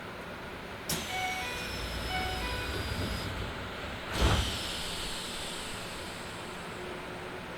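Passenger sliding doors of a stationary Keisei 3000-series train car operating: a sudden start about a second in with a falling high whine and a few short beeping tones, and a second clunk with a falling whine about four seconds in, over the car's steady background noise.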